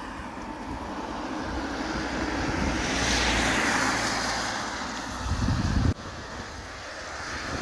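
A motor vehicle passing close by on the road, its noise swelling to a peak about three seconds in and then fading, with a low rumble underneath. The sound cuts off suddenly about six seconds in.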